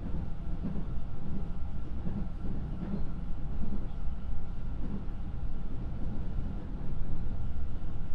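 Interior running sound of a JR West 221-series electric train car under way: a steady low rumble of wheels on rail and running gear, with faint steady tones from the traction equipment.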